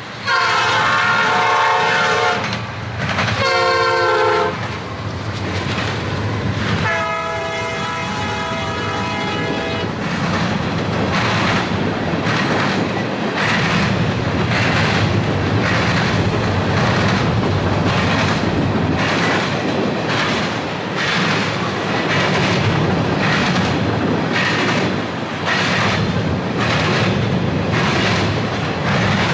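A freight locomotive's air horn sounds three blasts with several notes at once: a long one, a shorter one, then a long one ending about ten seconds in. The train of loaded covered grain hoppers then rolls past with a steady rumble, its wheels knocking over the track in a regular beat of about one a second.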